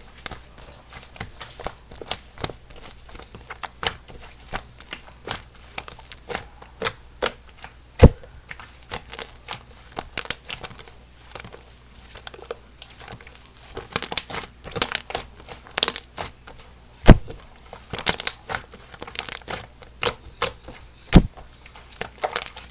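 Sky-blue slime mixed with cloud clay being squished, pressed and stretched by hand, giving a continuous stream of irregular sticky crackles and small pops. Three louder pops stand out, near a third of the way in, about three-quarters in and near the end.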